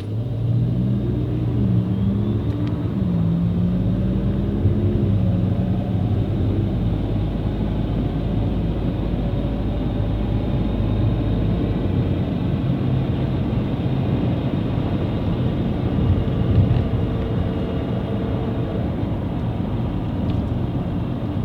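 2014 Nissan Altima driving, heard from inside the cabin: a steady drone of engine and road noise with a held whine over it, its pitch shifting in the first few seconds and then settling. This is the noise-while-driving complaint, traced to a failed bearing inside the car's CVT.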